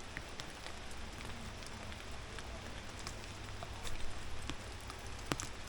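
Steady hiss of light rain, with scattered sharp ticks of drops striking close by.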